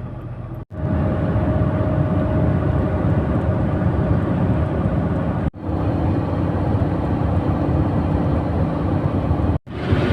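KamAZ 4308 truck driving, its engine and road noise heard from inside the cab as a steady low rumble. The sound breaks off sharply three times: near the start, about halfway, and near the end.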